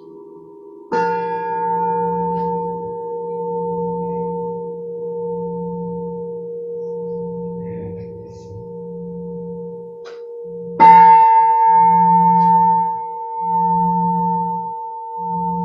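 Metal singing bowl struck twice, about ten seconds apart. Each strike rings on in long steady tones over a low hum that swells and fades in slow pulses.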